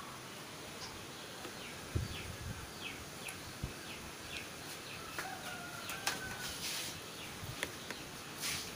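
Faint background bird chirps: many short, quick downward chirps, with a longer held call around the middle. A few soft knocks are mixed in.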